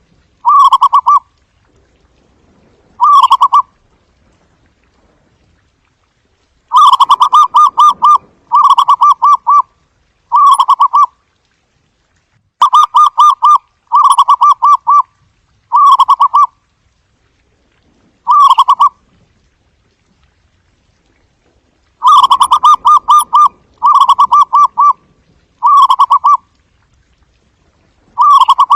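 Zebra dove cooing: loud, short phrases of rapid staccato coos, each under a second long, coming singly or in runs of two to four with pauses of a few seconds between.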